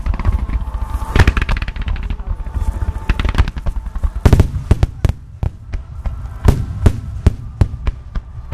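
Aerial fireworks bursting: a rapid run of sharp bangs and crackles, with heavier booms about a second in, at about three and four seconds, and again near six and a half seconds.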